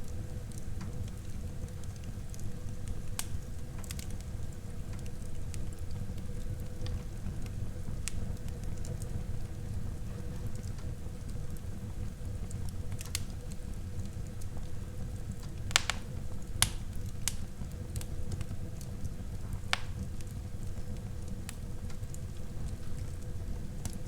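Wood fire burning in a fireplace: a steady low rushing under scattered sharp crackles and pops, the loudest pops a little past halfway.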